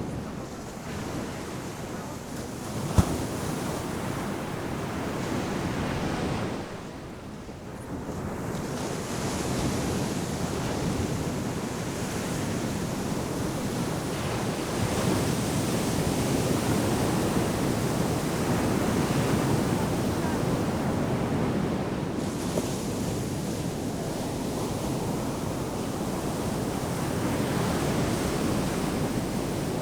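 Ocean surf breaking and washing up the shore in a continuous rushing wash that swells and ebbs, with a brief lull about seven seconds in. A single sharp click sounds about three seconds in.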